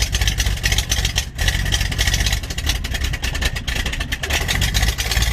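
A vehicle engine running loudly, its level wavering and dipping briefly a couple of times.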